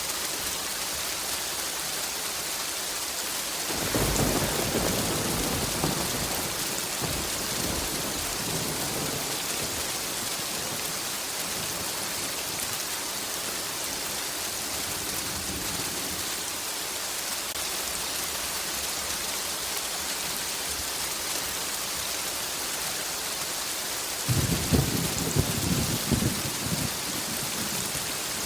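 Steady heavy rain hissing, with thunder twice: a rumble a few seconds in that fades away slowly, and a louder, crackling peal near the end.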